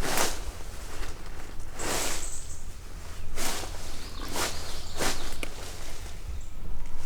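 Footsteps through dry leaf litter, a slow crunching step about every second or so.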